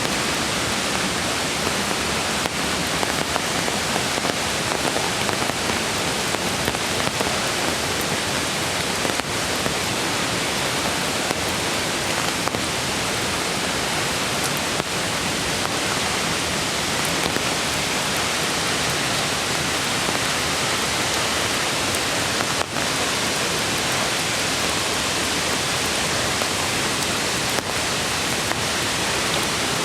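Steady, even hiss of rain falling in a forest, mixed with rushing creek water, with faint scattered drop ticks.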